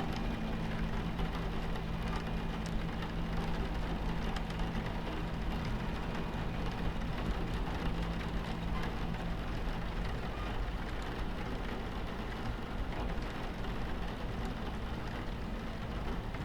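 Steady rumble of a train running, heard from inside the carriage, with rain pattering on the window. A low hum under the rumble fades out about two-thirds of the way through.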